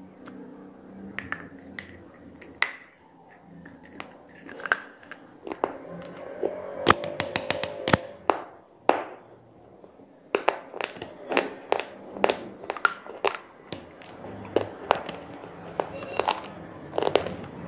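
Mouthful of square grey slate being chewed, giving irregular sharp crunches and clicks with quieter gaps between.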